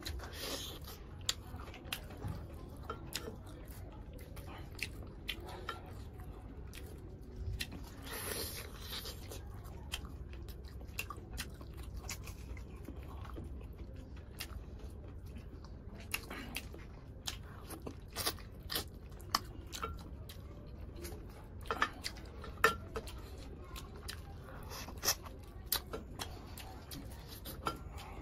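Close-up eating sounds of a person chewing and biting curried chicken leg meat, with scattered wet mouth clicks and smacks that come more often in the second half, over a steady low hum.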